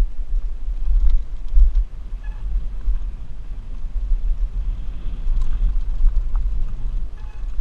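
Wind buffeting a helmet-mounted GoPro on a mountain bike descending a trail: a heavy, fluctuating low rumble with faint scattered clicks and rattles from the bike.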